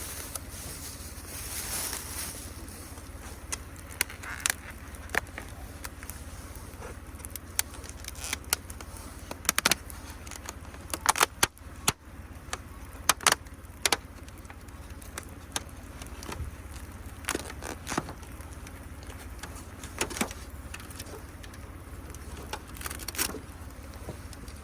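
Wood campfire crackling: irregular sharp pops and snaps, a few at a time, with a quick cluster about eleven seconds in.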